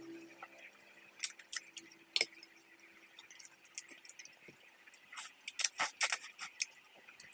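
Eating sounds: scattered sharp clicks and clinks of utensils and mouth, with a cluster of louder ones about five to six seconds in.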